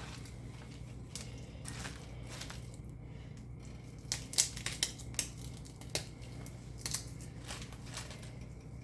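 Hands mixing ground chicken with egg and crushed pork rinds in a bowl: soft handling noise with scattered small clicks and crackles, most between about four and seven seconds in, over a steady low hum.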